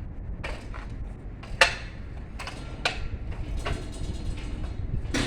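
A handful of sharp knocks and clicks, like equipment being handled, over a steady low rumble; the loudest knock comes about a second and a half in.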